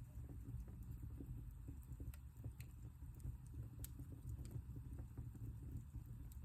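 Wood fire burning in a fireplace, a low steady rumble of the flames with irregular small crackles and pops.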